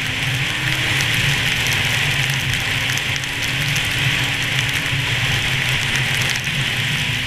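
1998 Arctic Cat SRX 700 snowmobile's two-stroke triple engine running at a steady, slightly wavering pitch under way, under a loud constant hiss of wind and blowing snow.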